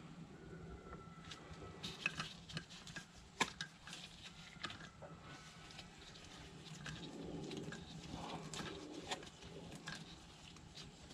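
Scattered light clicks and taps of metal tools and parts being handled on a bench, with two sharper knocks about 2 and 3.5 seconds in.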